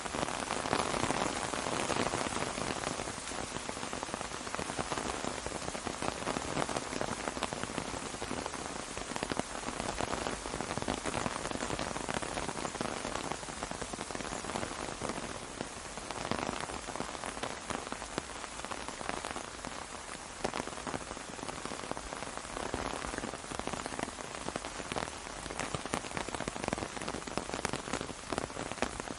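Rain falling on an umbrella: a dense, steady hiss of many drops that grows heavier and eases off every few seconds.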